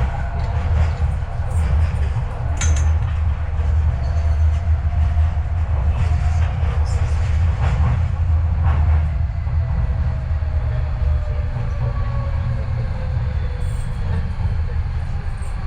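Docklands Light Railway train running between stations, heard from inside the carriage: a steady low rumble with occasional clicks and knocks from the wheels on the track, and a faint whine that slowly falls in pitch in the middle.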